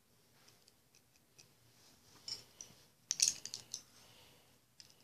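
Packaging being handled and opened by hand: faint ticks, a short crackle a little over two seconds in, then a louder cluster of sharp crackles and clicks around three seconds in.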